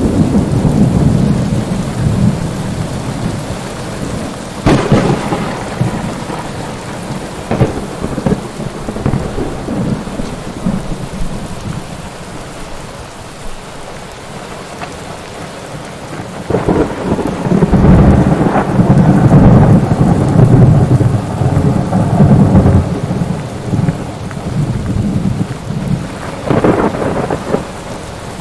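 Steady rain with thunder: sharp cracks about five and seven seconds in and again near the end, and a long, loud rolling rumble through the middle of the later half.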